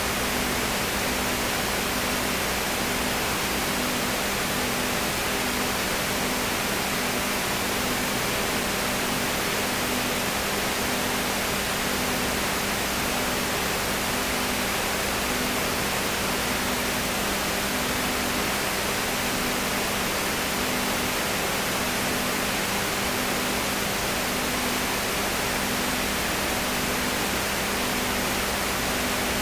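Steady hiss with a faint low hum underneath that pulses about every second and a half; no other sound.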